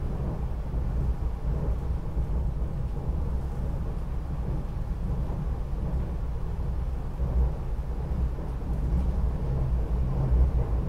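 SEPTA regional rail train running along the track, heard from inside the passenger car as a steady low rumble.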